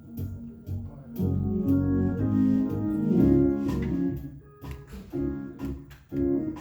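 Organ music with a steady beat of sharp percussion hits. Held chords swell in about a second in, fade briefly near the end, then come back.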